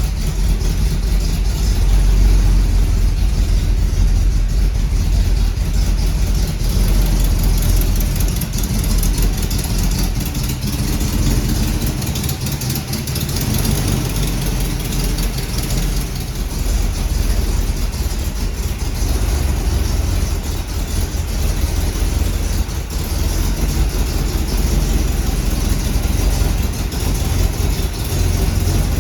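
A 350 small-block Chevrolet V8 in a 1939 Ford Super Deluxe, running steadily with a deep low rumble.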